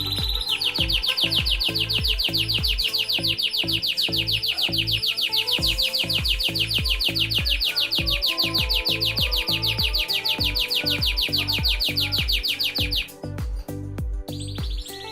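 Belgian canary singing one long, very fast trill that stops about 13 seconds in, over background music with a steady beat.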